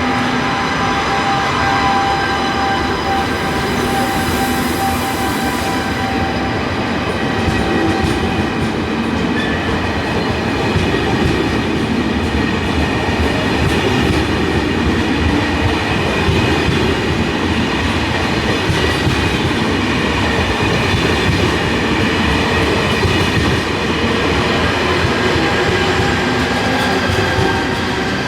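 TGV high-speed train running continuously and loudly, a steady rolling noise with several steady whining tones over it.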